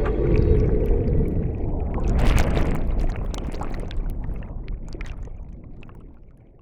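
Underwater noise heard by a submerged camera: a low rumble with scattered clicks, and a gurgling rush about two seconds in, fading out toward the end.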